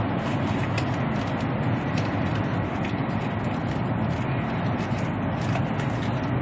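Steady rumble and rush of a Chinese high-speed bullet train running at speed, heard from inside the passenger carriage.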